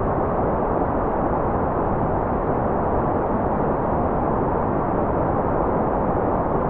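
Steady white-noise track: an even, unchanging hiss weighted toward the low and middle range, with the highs rolled off, so it sounds dull and rushing rather than bright.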